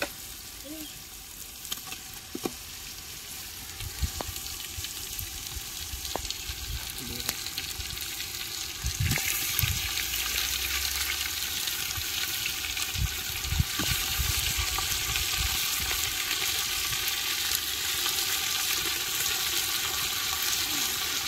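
Chicken pieces sizzling in hot oil and masala in a biryani pot. The sizzle grows louder about nine seconds in, with a few soft knocks along the way.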